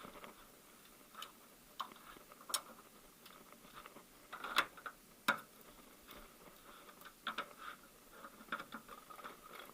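Faint, irregular clicks and metal taps of hand tools working on the engine mount bolts, with a couple of sharper knocks about halfway through.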